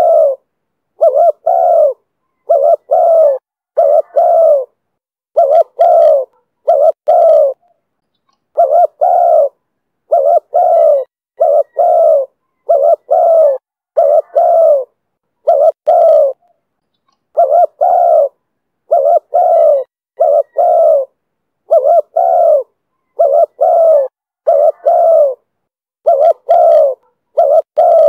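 Spotted dove cooing loudly: phrases of two or three short coos repeated over and over, about every one and a half seconds. The call style is the one Vietnamese dove keepers name 'thổ thúc bổi'.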